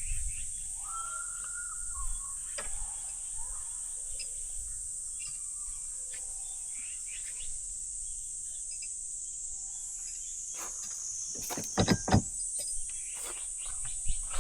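Steady high-pitched insect chorus, with scattered small knocks and a short cluster of louder knocks near the end.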